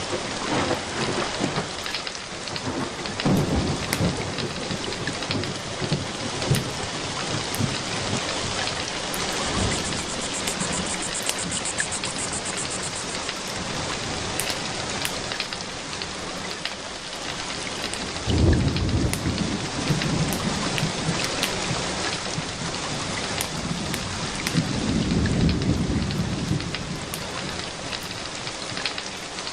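Steady rain with thunder: a low rumble about three seconds in, a sudden clap about eighteen seconds in, and a longer rolling rumble a few seconds later.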